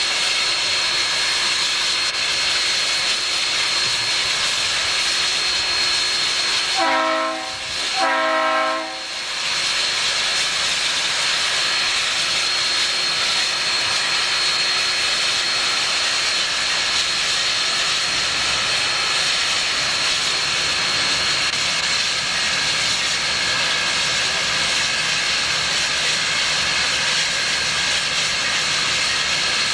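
Steady hiss of steam from Union Pacific 3985, a Challenger steam locomotive, standing with steam up. About seven seconds in, its chime whistle sounds two short blasts.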